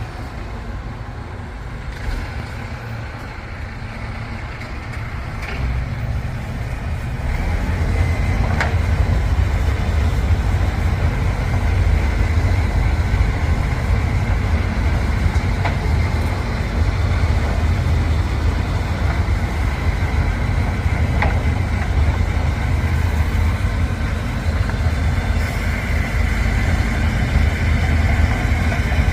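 Rotopress rear-loading refuse truck running: a steady low rumble that grows louder about seven seconds in, with a few sharp knocks.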